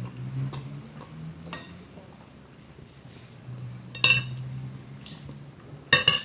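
A fork or spoon clinking against a plate twice, about four seconds in and again near the end, with a ringing note each time. Small clicks and soft chewing sounds fall between the clinks.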